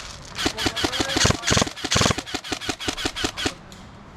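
Airsoft gun firing a rapid string of shots, about eight a second, each a sharp click with a short twang, stopping about three and a half seconds in, with a few heavier thuds in the middle.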